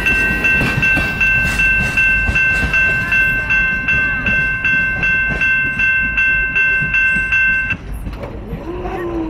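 A railroad bell ringing rapidly, about two strikes a second, over the low rumble of a train; the bell stops suddenly near the end.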